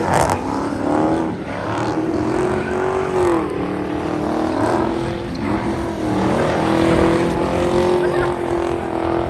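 Several muscle-car engines revving hard, their pitch sweeping up and down and overlapping.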